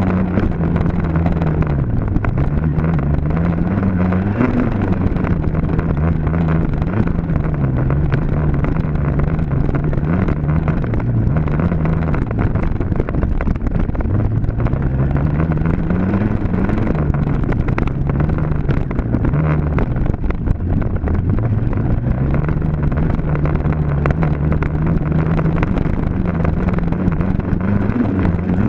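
Dirt bike engine running hard and continuously, its pitch climbing under throttle and dropping back several times as the rider accelerates, shifts and rolls off.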